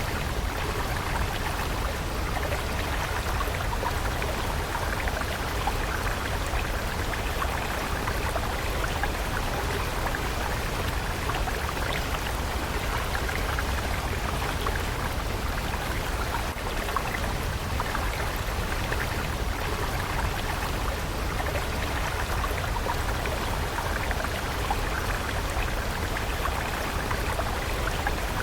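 Water stream flowing steadily, a continuous babbling trickle over a low rumble.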